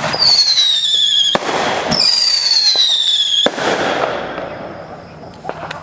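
Fireworks display: two long falling whistles from whistling shells, each lasting about a second and a half and cutting off suddenly, with a rush of crackling noise that fades away over the last two seconds.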